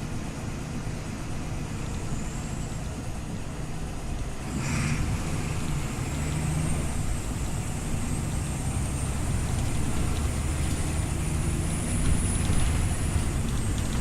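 Scania OmniLink city bus engine running, with a short hiss of air about four and a half seconds in; the engine then pulls harder and a high steady whine sounds over it until near the end.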